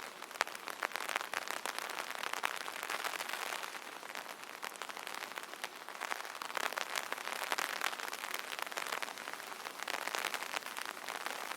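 Rain falling on an umbrella: a dense patter of drops tapping the canopy, swelling and easing every few seconds.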